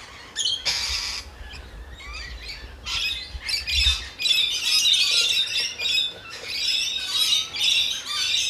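Several birds squawking and chirping, the calls getting denser and nearly continuous from about three seconds in, over a low rumble in the first few seconds.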